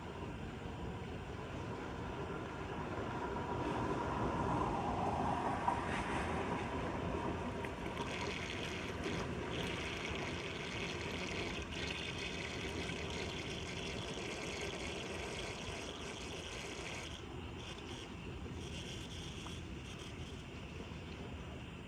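Floodwater running steadily into a street storm drain as a continuous rushing noise, with a brighter hiss through the middle.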